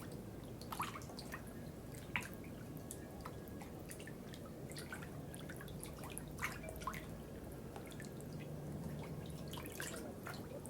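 Water dripping: irregular drops falling at an uneven pace, a few of them louder, over a steady low background hum.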